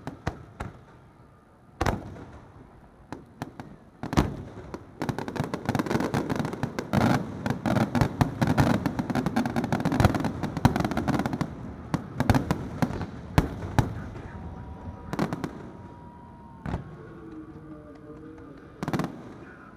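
Fireworks display: single loud shell bursts about two and four seconds in, then a dense barrage of rapid bangs and crackling for about seven seconds. Scattered single bursts follow.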